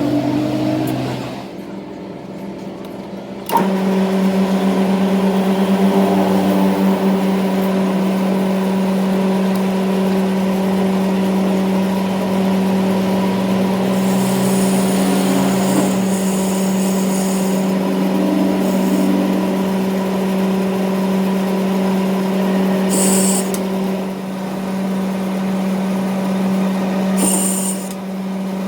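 A workshop machine switches on suddenly about three and a half seconds in and runs with a steady electric hum, with a few short high hissing or scraping bursts later on.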